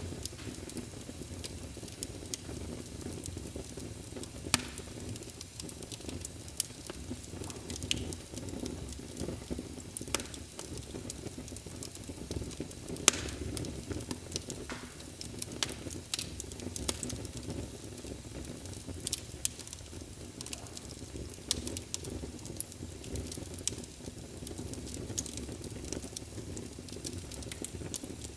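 Wood fire burning in a fireplace: a steady low rumble of flames with frequent irregular crackles and pops, a few sharper pops standing out about four and a half seconds and thirteen seconds in.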